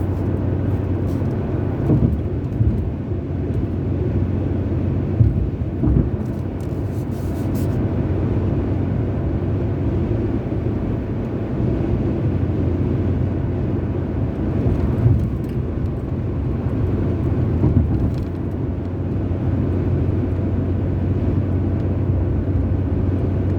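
A car driving along the road: steady engine and tyre noise with a low hum, and a few short thumps from bumps in the road.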